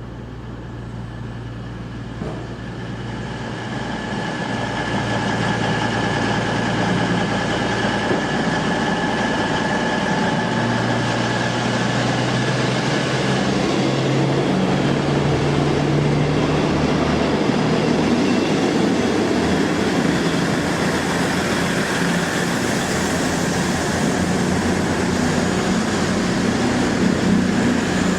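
Diesel passenger train running, its engine note rising in pitch as it gathers speed, growing louder over the first few seconds and then holding steady.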